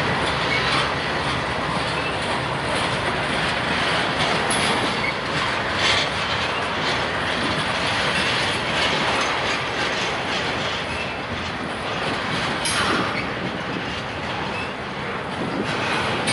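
Union Pacific double-stack container train rolling past: a steady rumble of wheels on rail, with a few sharp clacks as wheels cross rail joints.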